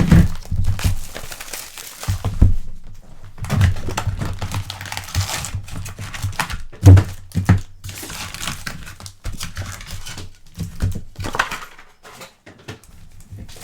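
Foil trading-card pack wrappers being crinkled and torn open, with scattered knocks and handling on a tabletop and one loud thump about seven seconds in.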